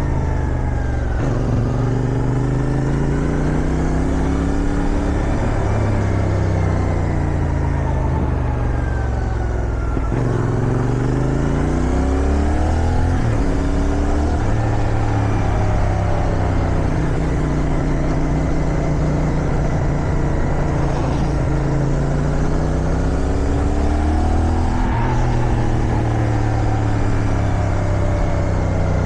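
CFMoto 450SR parallel-twin motorcycle engine under way, its revs rising and falling repeatedly as the rider accelerates, shifts and backs off, with wind rushing past.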